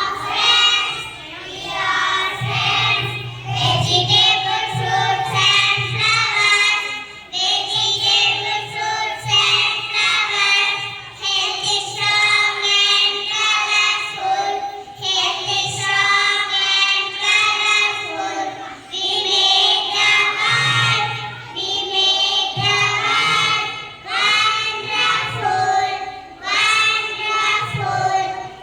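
A group of children singing a song together in chorus, in phrases of a second or two.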